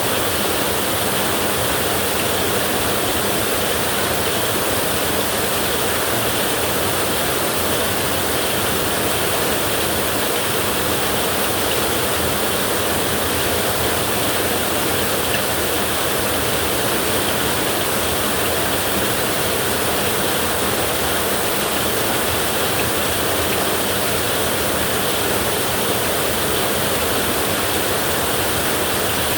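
Heavy rain falling on a tin roof, a steady, even hiss.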